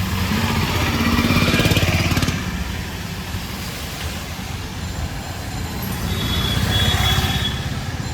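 Street traffic: motor vehicle engines running close by, with two louder passes, one about a second in and one near the end.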